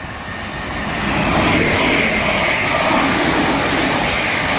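British Rail Class 365 electric multiple unit passing through the station: a loud rushing noise that builds over the first second and then holds steady.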